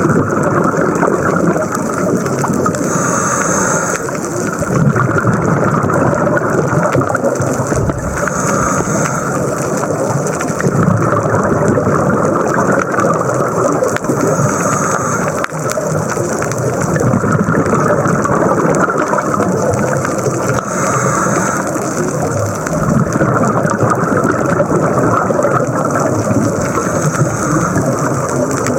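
Underwater sound of a scuba diver breathing through a regulator: a constant rumbling hiss of water, with a burst of exhaled bubbles about every six seconds.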